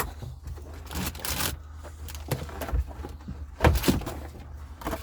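Irregular knocks, clatter and rustling of tools and bits being handled and put into a bag, over a steady low rumble.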